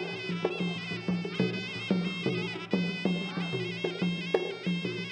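Traditional Cambodian boxing ringside music: a sralai reed oboe playing a wavering, continuous melody over drum strokes about two a second.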